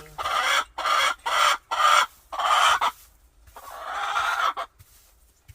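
Agitated hen squawking loudly and repeatedly: five short harsh calls in quick succession, then a pause and one longer call. This is the complaint of a hen that is upset about something.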